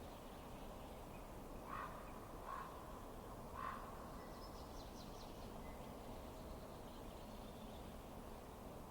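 Three short bird calls about two, two and a half and nearly four seconds in, then a faint high twittering, over a steady low hiss.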